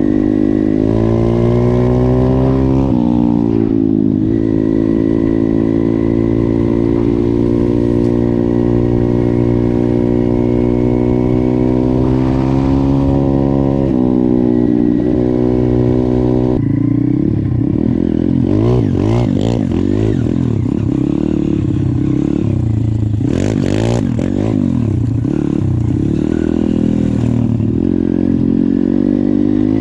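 YCF 150 pit bike's single-cylinder four-stroke engine under way. Its pitch climbs and drops near the start, holds steady for long stretches, then through the second half the revs swing rapidly up and down as the throttle is worked on and off.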